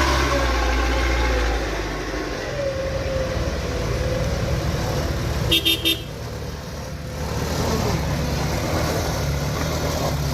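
A vehicle horn gives three quick short toots about halfway through, over the steady low running of an engine.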